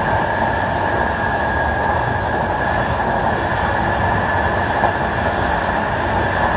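Passenger train carriage rolling along the track, heard from the rear end of the train: a steady rumble of wheels on rail with a steady high tone over it, and one small click about five seconds in.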